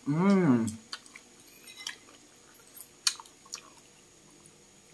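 A short hummed "mmm" whose pitch rises and falls, then quiet chewing of milkfish with a few small scattered clicks and mouth smacks.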